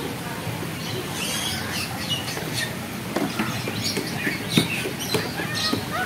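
Small birds chirping in short, scattered calls over steady background noise, with a few short knocks in the second half.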